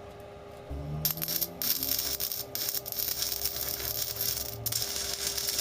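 A power tool starts up under a second in and works metal, giving a harsh hiss in spurts with short breaks, over a steady background hum.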